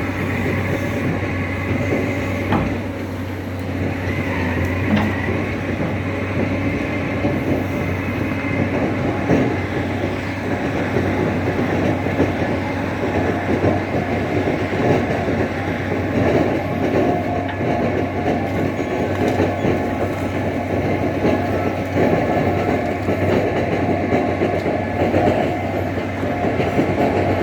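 Tractor engine running steadily under load, with a dense, continuous rattle and clatter over a steady low hum.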